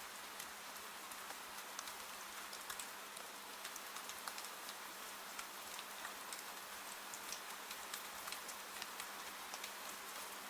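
Steady rain: an even hiss of falling rain with many scattered, sharper drop ticks. A faint steady low hum runs underneath.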